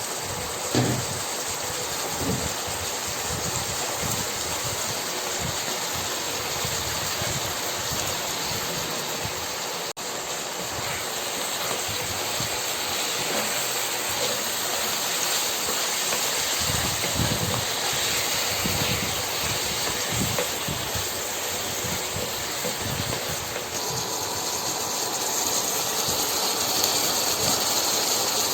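Chicken stir-frying in a hot pan: a steady sizzle, with a few soft knocks from stirring and a louder knock about a second in.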